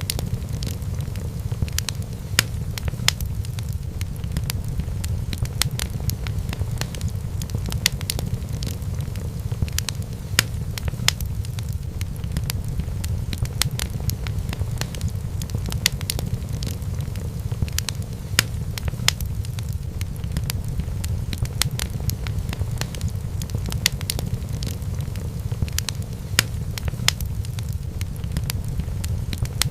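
Wood fire burning in a fireplace: a steady low rumble with sharp crackles and pops coming irregularly, several a second.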